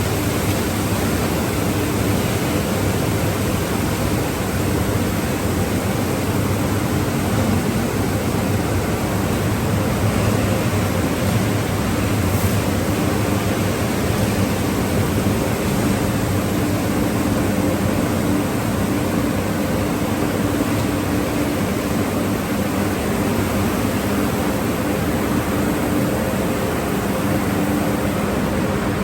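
Automatic car wash tunnel machinery running: a steady hiss with a faint low hum underneath.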